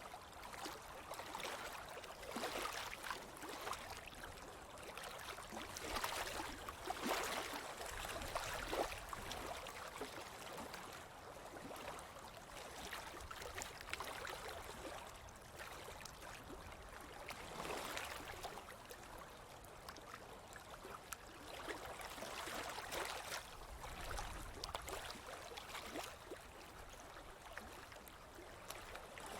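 Ocean waves washing onto a beach: a steady rush of surf that swells and fades every few seconds.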